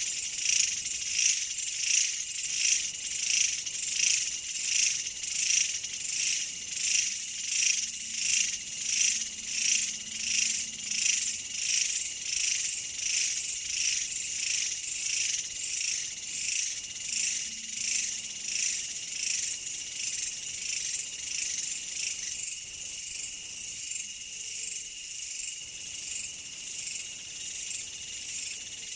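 High-pitched insect chorus, crickets or similar, chirping in a steady rhythmic pulse about one and a half times a second. Near the end the pulsing fades, leaving a steadier high trill.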